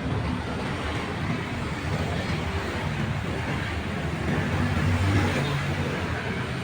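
Steady low engine rumble under a wash of outdoor noise, swelling slightly about five seconds in.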